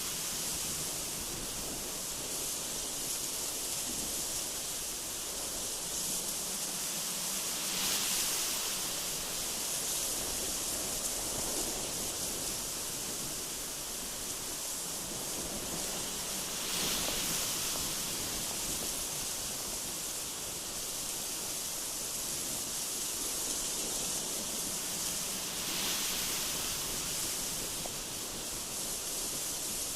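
Strong gusty wind blowing: a steady, hissing rush that swells in a gust three times, roughly every nine seconds.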